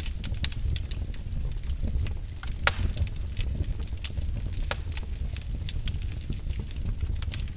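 Wood fire burning in a fireplace: irregular crackles and snaps over a steady low rumble, with one louder pop about two and a half seconds in.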